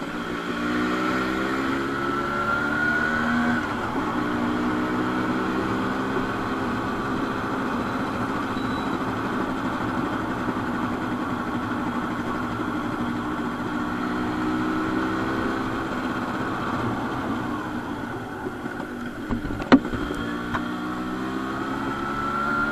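Modified Yamaha RX100's two-stroke single-cylinder engine revving up and pulling through the gears while riding, its pitch climbing twice and holding between. One sharp crack is heard near the end, just after the throttle eases off.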